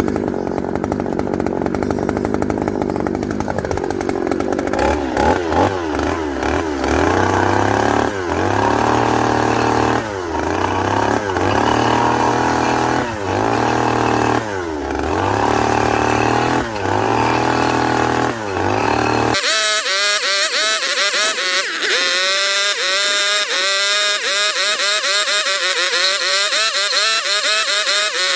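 Chainsaw cutting wood, its engine revving up and falling back over and over, about every second and a half. About two-thirds of the way through, the deep part of the sound drops away suddenly, leaving a thinner, higher-pitched run of the same revving.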